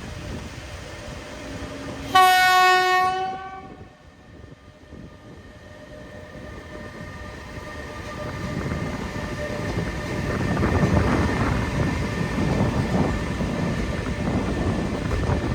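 Electric locomotive sounding a single horn blast of about a second and a half, about two seconds in; later the rumble and wheel clatter of the locomotive and its freight wagons passing through build up from about eight seconds in and keep going.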